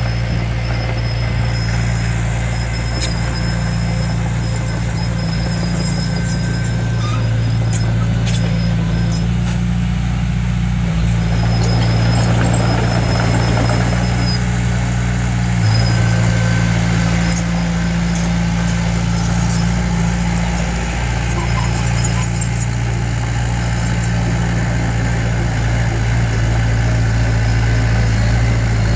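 Diesel engine of a heavy earthmoving machine running steadily, with faint intermittent high squeaks and clicks over it.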